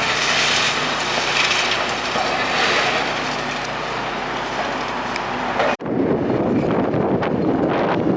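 A steady rushing rumble of a passing vehicle, then an abrupt cut about six seconds in to strong wind buffeting the microphone.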